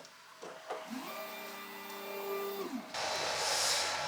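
Laser cutter at work: its motors whine, rising in pitch, holding steady for about two seconds, then falling away. A steady hiss then starts about three seconds in.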